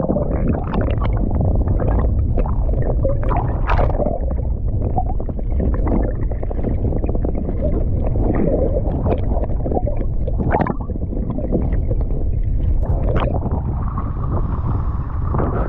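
Wind buffeting the microphone in a heavy, steady low rumble, with irregular splashes and slaps of choppy water against a small boat.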